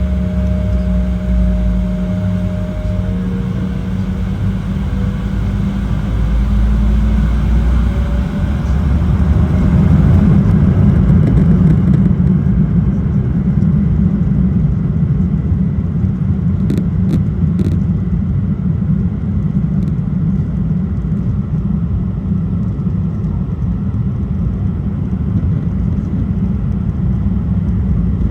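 Embraer E175 jet engines spooling up for takeoff: two whining tones rise slightly, then give way to a loud, steady rumble that swells about ten seconds in and holds. Three short clicks come about two-thirds of the way through.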